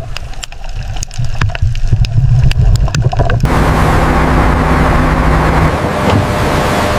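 A boat engine rumbles low under scattered sharp clicks and taps. About three and a half seconds in this cuts off abruptly to a steady rush of wind and sea, with a low engine hum beneath it.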